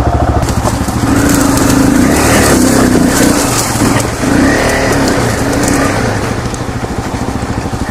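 Honda CRF250L's single-cylinder four-stroke dirt-bike engine running at low revs, its note wavering slightly up and down.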